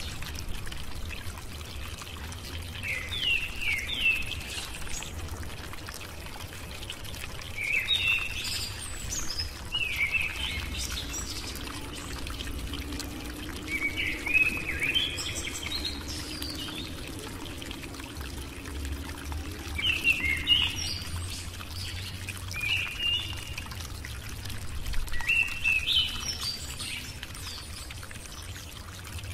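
Bird chirping in short rising bursts every few seconds, over a steady background hiss and a low hum.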